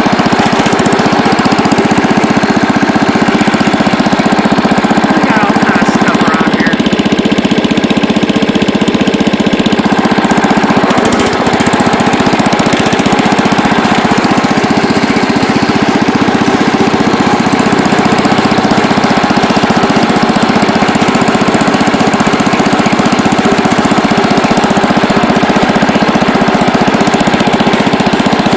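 Allis-Chalmers Big Ten garden tractor's Briggs & Stratton single-cylinder engine running steadily, loud and close, freshly brought back to running with a cleaned carburettor and adjusted governor.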